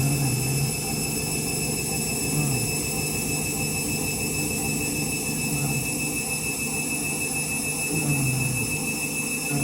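Candy washing machine's motor running steadily through a spin between the main wash and the rinse, a steady whine with high-pitched tones over a low hum.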